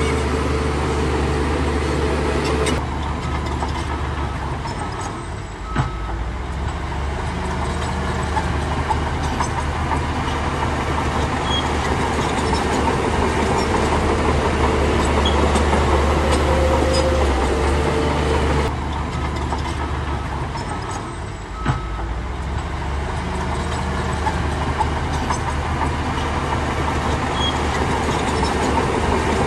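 Shantui bulldozer's diesel engine running steadily under working load, its low note changing at about three seconds and again at about nineteen seconds. A sharp knock sounds about six seconds in and again near twenty-two seconds.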